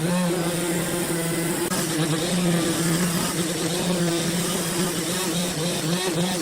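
Engine-driven saw running steadily with a wavering hum, cutting a large log into slabs.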